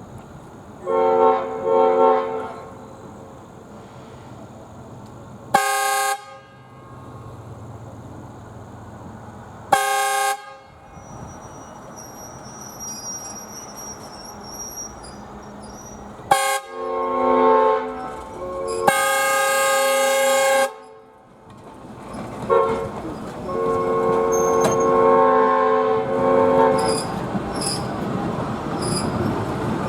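Five-chime Nathan S5T air horn on an ALCO RS-1 diesel locomotive: two short toots, two brief blips, then the grade-crossing signal of long, long, short, long. Rail and wheel noise rises as the train moves up.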